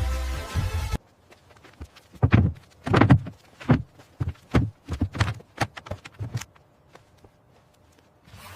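Electronic background music cuts off about a second in. It is followed by about a dozen irregular knocks and thuds over some four seconds, the loudest two early in the run.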